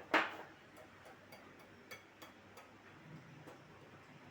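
A spoon knocking once against a bowl, then light, irregular clicks and taps of the spoon on the bowl as chicken is stirred in its marinade.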